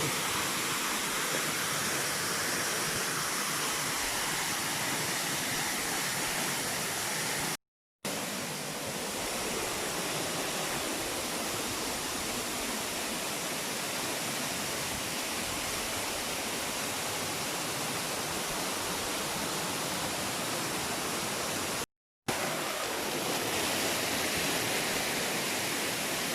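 Water of a small waterfall rushing steadily, a dense even noise. It cuts to silence for a moment twice, about eight and twenty-two seconds in.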